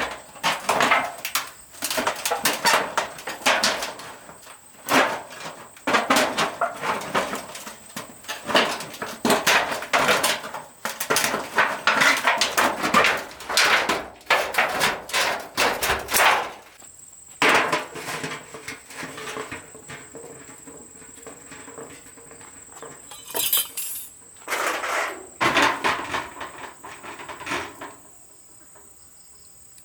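Rapid, irregular hammering knocks for about the first sixteen seconds, then only scattered knocks over a steady high-pitched insect drone.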